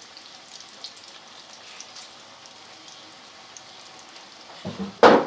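Egg pakoras deep-frying in hot ghee: a steady sizzle with small crackles. A short, loud burst of noise cuts in near the end.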